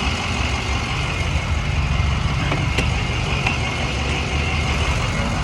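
Box truck's engine running steadily: a low hum with a faint, steady high whine above it.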